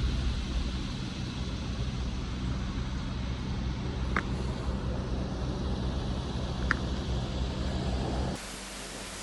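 Steady low rumble of road traffic, with two brief high chirps about four and six and a half seconds in. Near the end it cuts abruptly to a quieter hiss.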